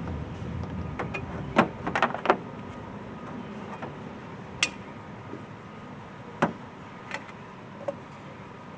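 Scattered sharp clicks and knocks of hand tools and parts being handled while fitting an air intake tube and its hose clamps, a cluster in the first couple of seconds and single taps later.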